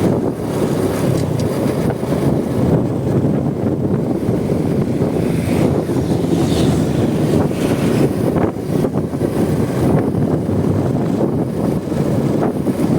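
Heavy wind buffeting on the microphone of a moving motorcycle, with the Honda Supra X 125's single-cylinder four-stroke engine running steadily underneath.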